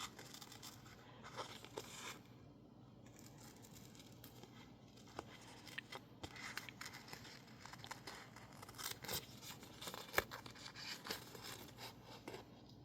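Scissors cutting out stickers made of masking tape stuck on label paper: an irregular run of short snips and paper rustling.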